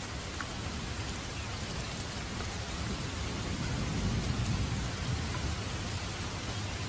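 Steady rainfall, an even hiss of drops with a few separate drop ticks. A low rumble swells briefly around the middle.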